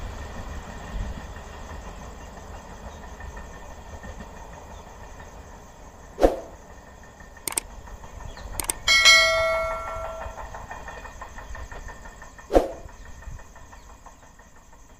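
Electric passenger train running away down the track, its rumble slowly fading. Over it a subscribe-button sound effect: a whoosh about six seconds in, two clicks, then a bell ding about nine seconds in that rings out for about a second, and another whoosh near the end.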